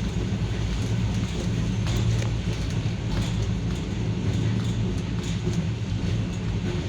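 A vehicle on the move: a steady low engine hum with road noise and a few light clicks and rattles.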